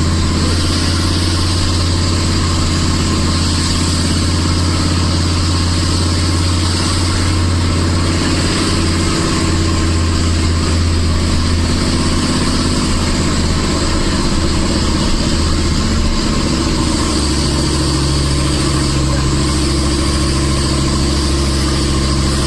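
Nissan Diesel Big Thumb truck's RH10 V10 diesel engine running steadily under a 25-tonne load on a hill climb. The low engine note shifts about two-thirds of the way through.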